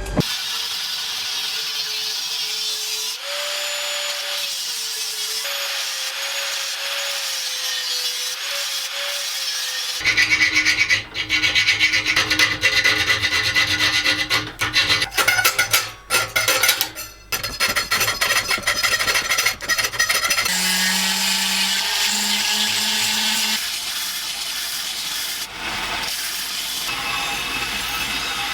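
Steel knife blank being ground and filed down to remove a mistake: continuous abrasive rubbing and scraping on metal. The sound changes abruptly about a third of the way in, becoming harsher and uneven with brief drop-outs, and shifts again later on.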